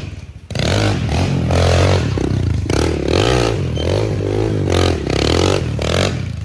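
Motorcycle engine revving hard in repeated surges, its pitch rising and falling, with some scraping and clattering.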